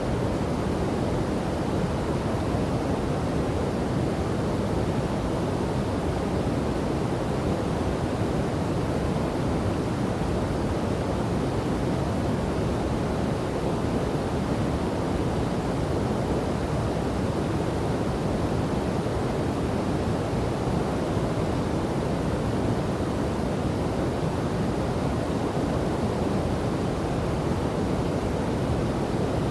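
River and waterfall water rushing in a steady, even wash, deep rather than hissy, with no change throughout.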